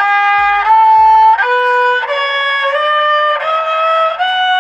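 Thai so sam sai (three-string spike fiddle) bowed in a rising scale: about seven notes, one every two-thirds of a second or so, with short slides between them. The pitch climbs as the finger moves down the string toward the bridge.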